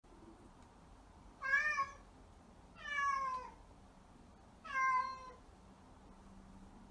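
A black-and-white Korean shorthair cat meowing three times, each call about half a second long, the second falling in pitch: calling for its owner.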